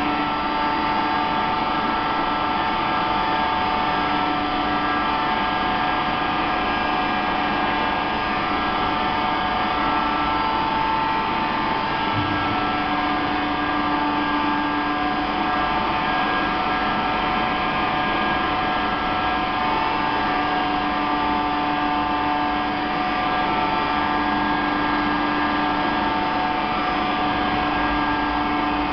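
Elevator hoist motor in a lift machine room running steadily at full travel speed: an even mechanical hum with a steady whine of several tones that holds its pitch.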